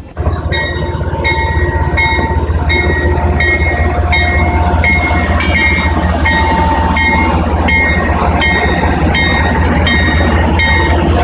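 Amtrak diesel passenger locomotive passing close by, its engine rumbling deeply while its bell rings about twice a second. The sound comes in suddenly at full loudness.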